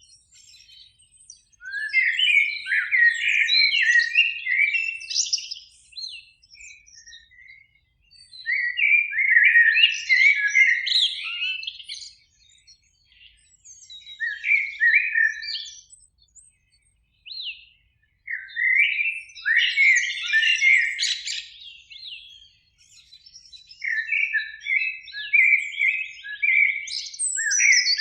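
Eurasian blackbird singing: about five fluting song phrases separated by short pauses, with a quick run of repeated twittering notes near the end.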